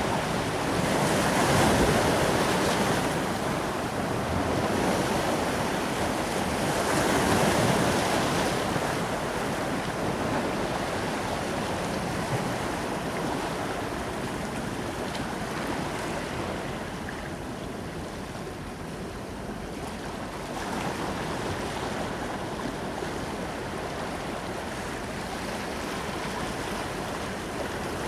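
Ocean surf breaking and washing on a beach: two louder swells in the first eight seconds or so, then a softer, steadier wash.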